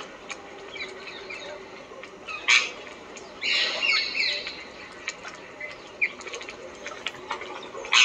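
Wild birds chirping and calling, with short chirps scattered throughout. There is a loud, harsh call about two and a half seconds in, and a longer run of rapid calls just before the middle.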